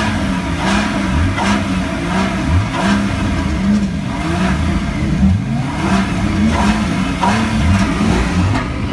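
Many car engines running at once and being revved, their pitches rising and falling over one another.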